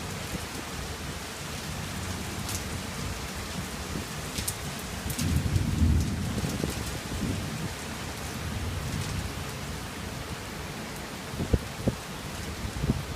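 Steady rain falling in a thunderstorm, with a low rumble of thunder swelling about five seconds in and fading a second or two later. There are a few short sharp taps near the end.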